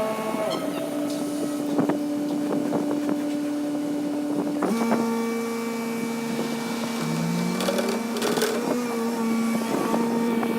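Hyundai HW60 wheeled excavator's diesel engine and hydraulics running steadily, the tone jumping in pitch about half a second in and again near five seconds as the machine is worked, with a few light knocks.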